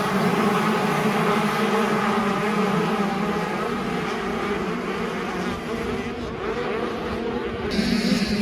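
Several motocross bikes running hard together at high revs, their engine notes overlapping. The sound eases slightly in the middle and swells again near the end as engines rev up.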